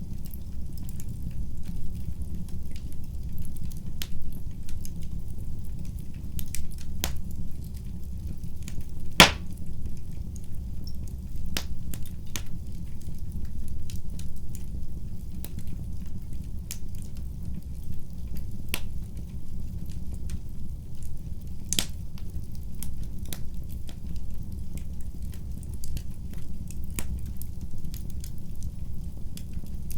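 Fire in a fireplace crackling: a steady low rumble of flames with scattered sharp pops and snaps. The loudest pops come about nine seconds in and again past twenty seconds.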